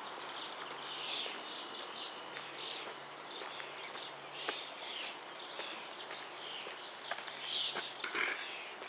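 Small birds chirping outdoors, a run of short high calls that overlap throughout, loudest about halfway and again near the end, with a few faint ticks and a faint steady low hum underneath.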